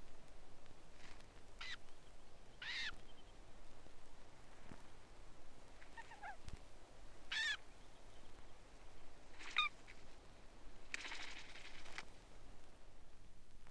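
Red knot giving short, nasal calls a second or more apart, with a longer, harsher call about eleven seconds in.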